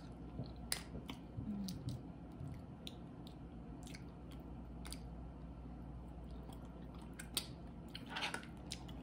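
A person chewing seafood close to the microphone, with scattered small clicks and smacks.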